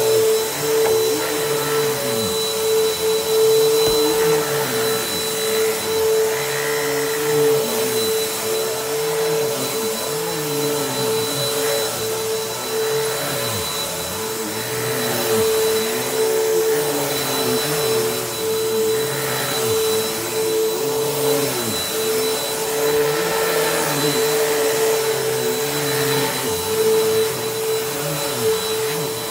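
Bissell PowerForce Helix upright vacuum cleaner running steadily with a constant motor whine, under a lower whoosh that swells and fades every second or two.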